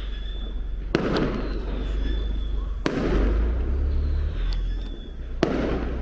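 Fireworks exploding: three sharp bangs about two seconds apart, each trailing off in an echoing rumble.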